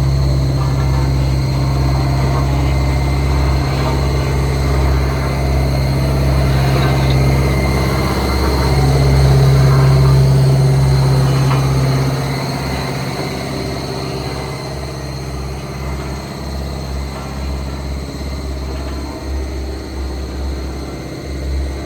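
Diesel engine of a heavy construction machine running steadily. It swells in level about nine seconds in, then eases off and wavers after about twelve seconds.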